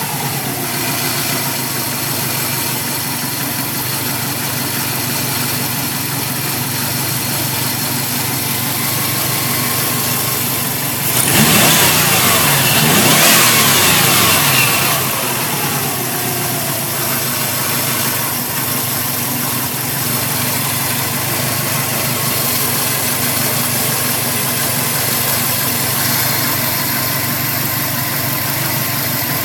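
2005 Subaru WRX's turbocharged flat-four engine idling, revved once about eleven seconds in, with the pitch rising and falling back to idle over a few seconds. It is being shown for a weird noise the owner hears.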